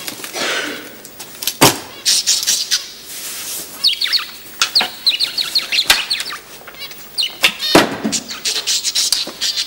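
A small bird chirping in a quick run of short, high, falling notes through the middle, with a few sharp knocks among them.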